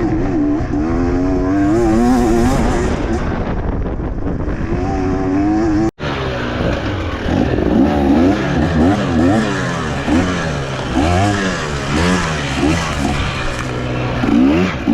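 Dirt bike engine being ridden hard, its pitch rising and falling as the throttle is worked and gears change. There is a short break about six seconds in, after which the revs swing up and down more quickly.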